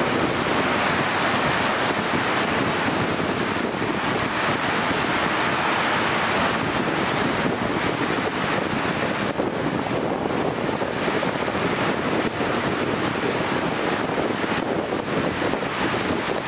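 Heavy rain pouring down steadily in gusting wind, with wind buffeting the microphone.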